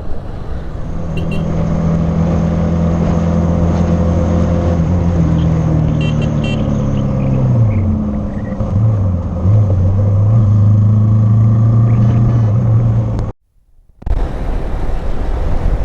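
Hero Xpulse 200 motorcycle engine running under way with a steady note over wind noise. The pitch drops about two-thirds of the way through as the bike slows or shifts, then holds steady again. The sound cuts out for about half a second near the end.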